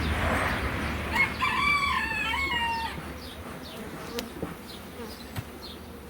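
Honeybees buzzing steadily around an opened hive. A rooster crows once, from about one second in to about three seconds in.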